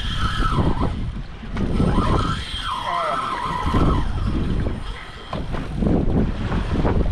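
Wind buffeting the microphone aboard an offshore fishing boat, a loud uneven rumble, with a few brief squeaks at the start and again about three seconds in.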